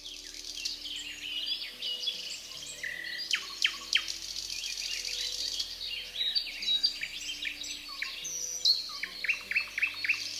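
A chorus of forest birds chirping and calling, many short falling chirps overlapping, with a quick run of about five chirps near the end.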